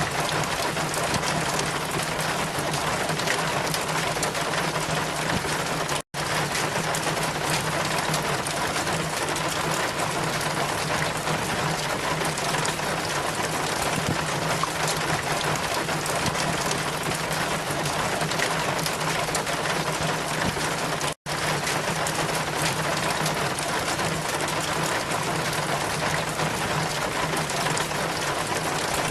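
Steady heavy rain falling, an even hiss with a low steady hum underneath. The sound cuts out for an instant twice.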